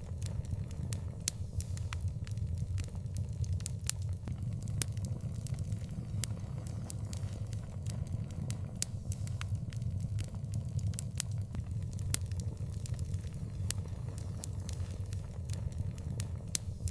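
Wood fire burning, with a steady low rumble of flames and many sharp, irregular crackles and pops, several a second.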